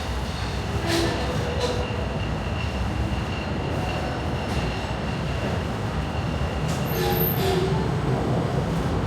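Walt Disney World Railroad train rolling along the track: a steady rumble of the wheels and cars, with a faint steady high ring, a couple of short clacks about a second in and again around seven seconds, and a brief squeal near the seven-second mark.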